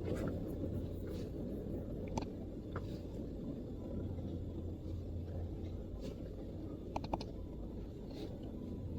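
Sparse MacBook keyboard keystrokes: short light clicks, one or two at a time a second or so apart, over a steady low background rumble.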